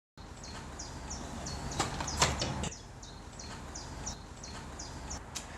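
A small bird chirping over and over, short high notes about three a second, over outdoor background noise. About two seconds in there is a brief louder rush of noise with a couple of knocks.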